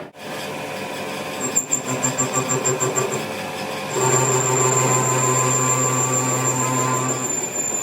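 A machine running. It pulses about five times a second for a second or so, then settles into a steady hum with a high whine from about four seconds in, which eases shortly before the end.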